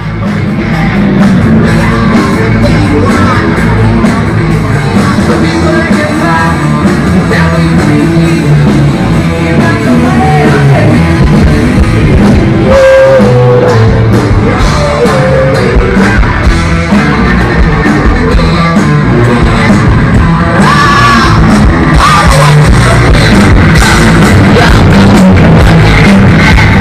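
Live rock band playing loud through a PA, with distorted electric guitar, drums and a singing voice. The music starts abruptly right at the beginning after a brief silence.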